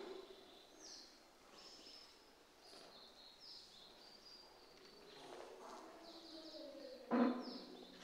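Small birds chirping repeatedly in short high notes, some dropping in pitch, against a quiet hall's room tone. A brief louder sound with a clear pitch breaks in about seven seconds in.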